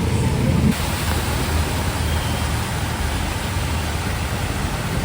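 Heavy rain falling steadily, a dense even hiss, with road traffic rumbling underneath; a passing vehicle's engine drops away under a second in.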